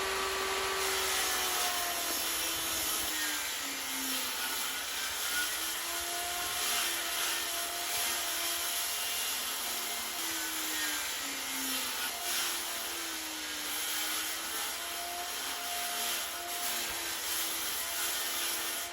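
Table saw ripping 1x4 boards. The motor's hum sags in pitch several times as the blade takes the load and then recovers, over the steady noise of the cut.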